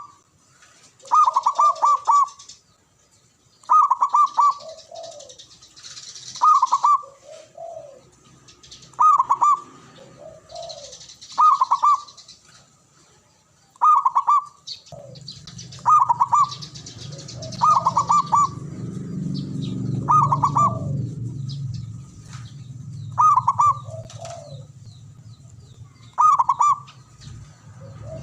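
Zebra dove (perkutut) cooing its repeated song phrase about every two and a half seconds, each phrase ending in a lower note, with high chirping from other birds in between. A low rumble comes in about halfway through.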